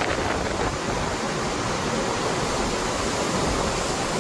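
Strong dust-storm wind blowing steadily: an even, unbroken rushing hiss.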